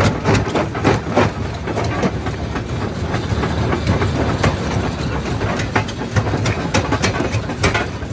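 Primary jaw crusher breaking rock: a continuous low machine rumble with frequent, irregular cracks and knocks as stones are crushed between the jaws.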